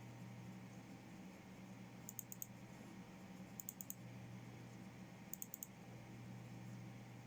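Faint computer keyboard keystrokes in three short runs of three or four quick clicks each, over the steady low hum of the running PC.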